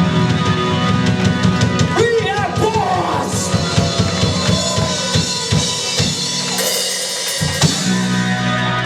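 Live rock band playing with the drum kit to the fore: a run of bass-drum and snare hits over guitar and bass, with a cymbal wash near the end and a held chord after it.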